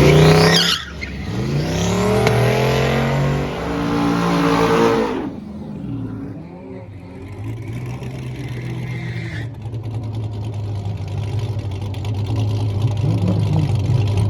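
A car's engine accelerating hard, its pitch climbing with a gear change about a second in, then easing off about five seconds in to a steady low drone.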